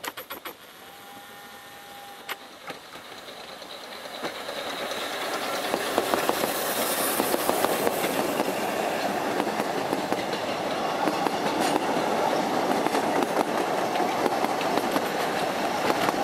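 Narrow-gauge steam train passing close by. The sound starts fairly quiet with a few sharp clicks, then from about four seconds in the coaches roll past with a loud, steady rumble and rapid clickety-clack of wheels over the rail joints.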